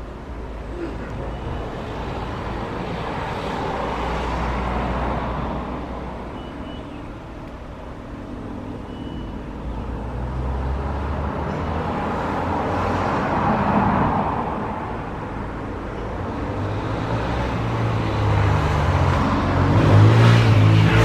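Road traffic: vehicles passing by one after another, each rising and fading, the loudest and closest near the end.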